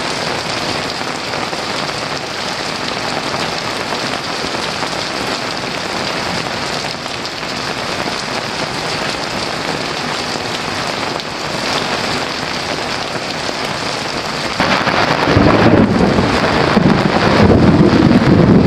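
Heavy rain falling steadily, with a low rolling rumble of thunder building up and growing louder near the end.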